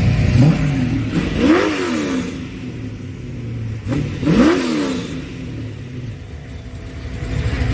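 Car engine revved twice, the pitch rising and falling each time over a steady rumble.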